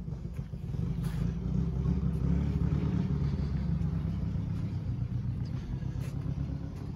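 A vehicle engine running, a low steady rumble that swells up over the first second and then holds.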